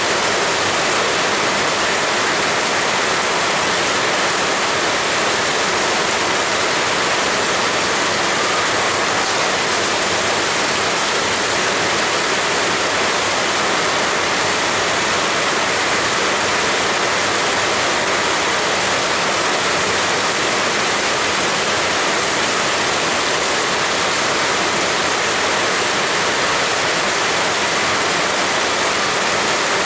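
Heavy rain pouring steadily, an even, unbroken hiss with no separate drops or thunder standing out.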